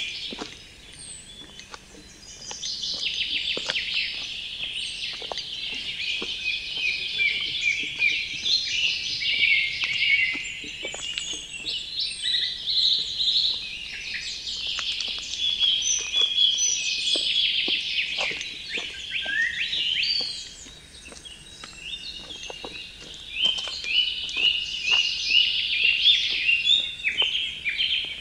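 Several wild birds singing at once, a dense chorus of chirps, trills and short whistled notes. Near the end one bird sings a quick run of short repeated notes.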